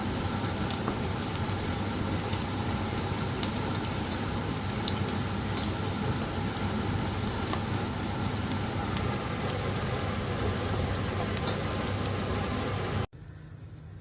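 Food frying in a pan, a steady sizzling hiss with scattered pops. It cuts off suddenly about a second before the end.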